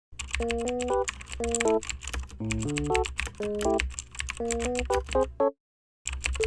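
Rapid keyboard-typing clicks over a bouncy background tune of short notes stepping up and down with a steady bass. Both cut out for about half a second near the end, then resume.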